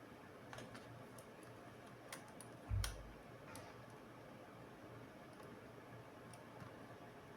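Scattered small plastic and metal clicks from laptop parts and tools being handled, with one louder dull thump about three seconds in.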